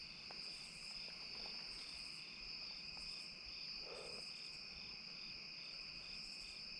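Chorus of crickets and other night insects: steady high trills layered with a regularly pulsing chirp and short bursts of higher buzzing. A brief soft sound comes about four seconds in.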